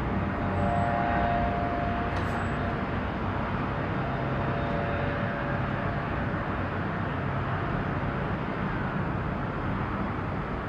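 Steady low rumble of distant engines in open-air harbour ambience, with a faint whine in the first couple of seconds and a single small click about two seconds in.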